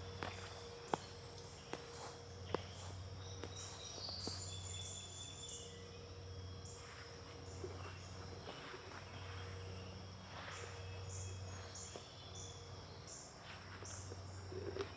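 Insects chirring steadily in a high pitch, with a quicker repeating pulse laid over it, and a few sharp clicks scattered through.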